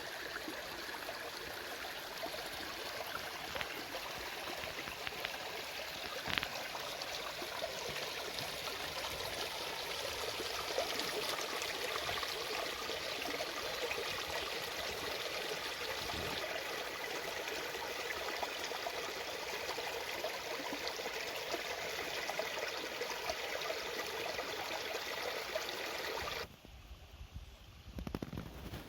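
Small stream babbling steadily over stones. It cuts off abruptly near the end, leaving a quieter background with a few low knocks.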